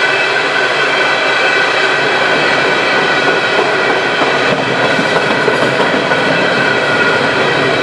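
Empty Norfolk Southern coal hopper cars rolling past at speed: a steady loud rumble and rattle of wheels on the rails, with steady high-pitched ringing from the wheels over it.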